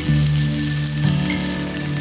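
Morning glory (water spinach) sizzling as it stir-fries in oil in a frying pan, a steady crackling hiss under louder background music.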